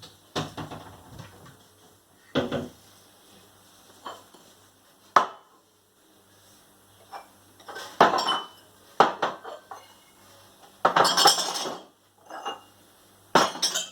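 Drinking glasses being put away on a cupboard shelf one after another: irregular clinks and knocks of glass on glass and shelf, with a longer clatter about eleven seconds in.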